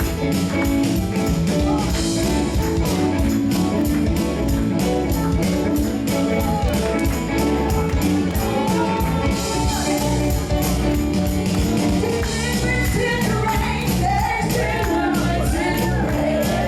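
Live gospel worship music with a steady beat and tambourine, band instruments holding chords, and singing voices rising in over the second half.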